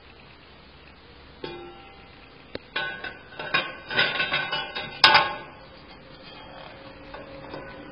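Metal parts and tools clinking and knocking during work on an A341E automatic transmission: a run of sharp metallic taps, some briefly ringing, starting about a second and a half in, with the loudest strike about five seconds in.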